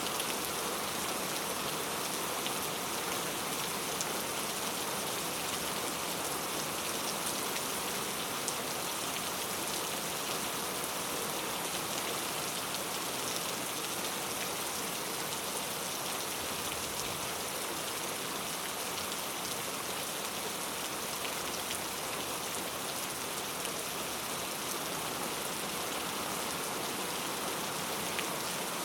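Steady rainfall, an even hiss of rain with faint drop ticks, unchanging throughout.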